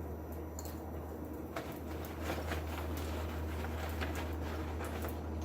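Hardwood charcoal burning in a forge fire, crackling with scattered small pops, over a steady low hum.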